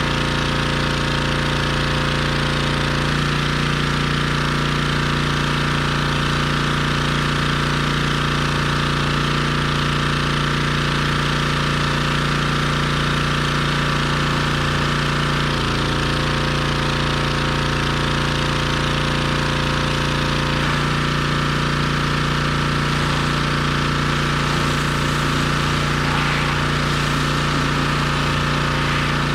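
Pressure washer's engine running steadily, with a hiss of spray over it; the engine note shifts slightly three times, about 3, 15 and 21 seconds in.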